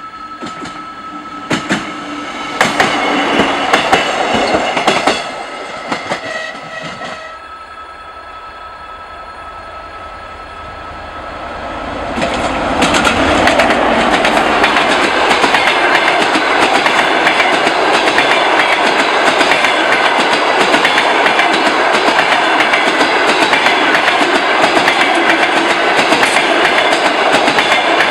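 A train passing on the line: clicks and a few steady tones for the first seven seconds, then from about twelve seconds in a loud, steady rush of wheels with rapid clicking over the rail joints.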